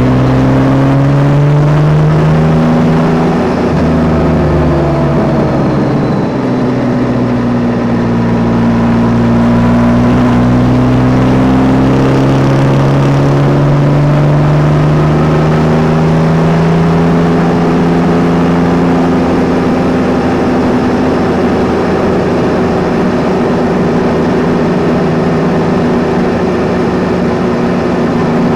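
Yamaha Tracer 9 GT's 890 cc three-cylinder engine under way, its note rising for the first few seconds, dipping briefly about four seconds in, then climbing slowly and settling to a steady pitch over a constant haze of wind and road noise.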